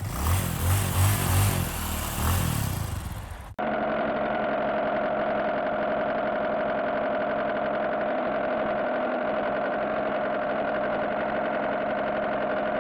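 Motor vehicle engine sound: a rough, pulsing run for about three and a half seconds, then a sudden cut to a steady, even drone like an engine holding at idle.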